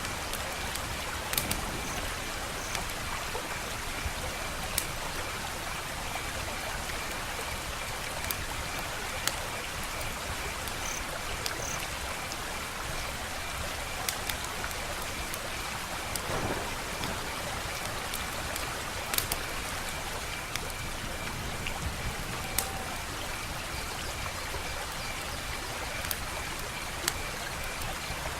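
Wood fire crackling: a steady hiss with sharp pops and snaps every second or two.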